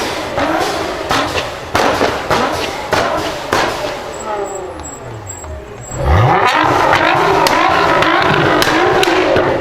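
Nissan GT-R R35's twin-turbo V6 revving, with a run of sharp exhaust pops and bangs over falling revs in the first few seconds. From about six seconds in the revs sweep up into a loud, sustained full-throttle run.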